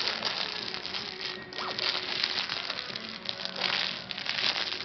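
Wood fire crackling in a fireplace, a dense run of small irregular snaps.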